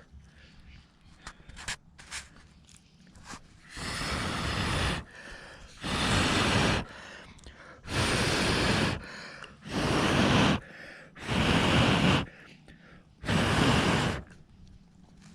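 A person blowing hard on glowing embers, six long blows of about a second each, to coax the coals into catching the tinder.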